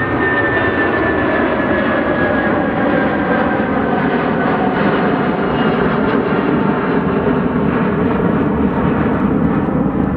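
Boeing 757-200F freighter's twin jet engines at takeoff power as it climbs away: a loud, steady rumble with high whining tones that slowly fall in pitch over the first few seconds.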